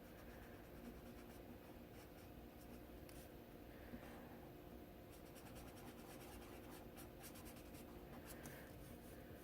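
Faint, rapid scratching of a colouring tool stroking back and forth on paper, over a low steady hum.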